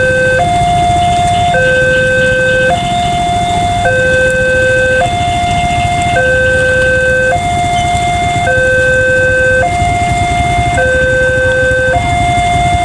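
Electronic warning alarm of an Indonesian railway level crossing, sounding a steady two-tone alternating signal, high then low, each note a little over a second long, which warns that a train is approaching. A low rumble runs beneath it.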